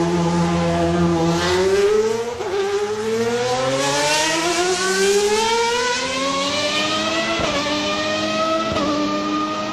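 1995 Formula 1 3.0-litre V12 engine at full throttle: a steady high note, then pitch climbing as it accelerates, with quick drops at upshifts a couple of seconds in and twice more near the end.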